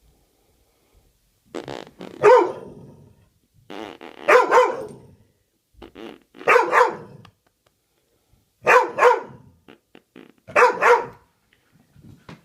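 A dog barking in short runs of two or three barks, five times about two seconds apart.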